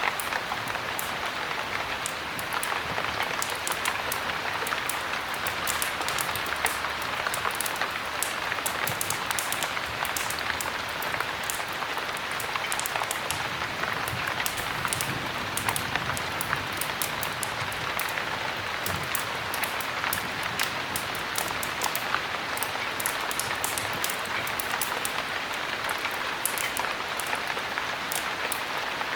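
Steady heavy rain, an even hiss, with many small sharp ticks of drops scattered throughout.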